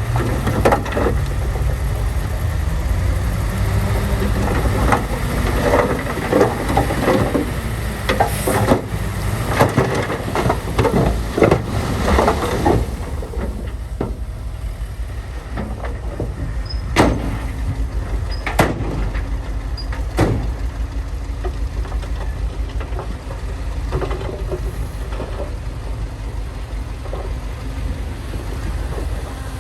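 Diesel engine of a Komatsu D41P crawler bulldozer running steadily under load, with frequent metallic clanks and knocks through the first half and three sharp knocks a little past the middle.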